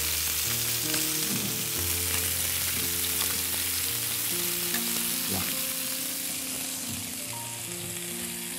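Chicken wings sizzling in hot fat in a frying pan, steady and fading slightly near the end, with a few light clicks of metal tongs as the pieces are turned.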